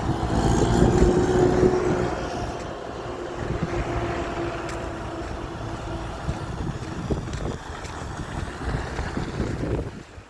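An engine running steadily, its hum sliding slowly lower in pitch, over a low rumble. It cuts off suddenly near the end.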